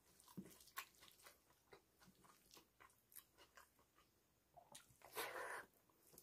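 Faint close-up sounds of a person eating rice and dal by hand: soft wet chewing and mouth clicks, then a louder, longer wet sound about five seconds in as a handful of rice goes into the mouth.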